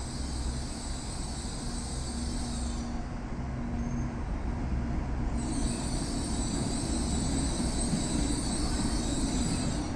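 Shinkansen bullet train pulling slowly into the platform, a steady low rumble growing gradually louder as it nears. A high-pitched whine over it cuts out about three seconds in and returns a couple of seconds later.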